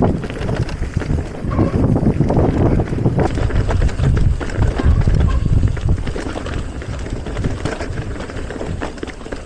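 Mountain bike riding down a dirt trail: wind buffeting the microphone, with the rumble of tyres over the ground and a steady run of knocks and rattles from the bike over bumps and roots.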